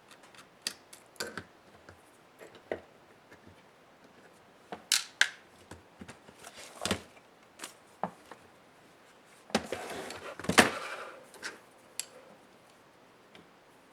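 Small sharp clicks and knocks of plastic and metal parts of an HP ProBook 430 G6 laptop being handled and worked on with tools, with a longer scraping, rustling stretch and the loudest click about ten seconds in.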